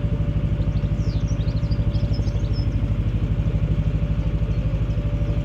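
Narrowboat's diesel engine running with a steady, even chug, with a few birds chirping over it from about a second in.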